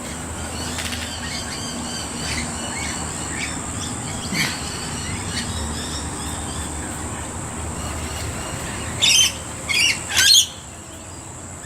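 A flock of rainbow lorikeets chattering with scattered short chirps, then three loud, harsh screeches between about nine and ten and a half seconds in, over a steady high-pitched hum.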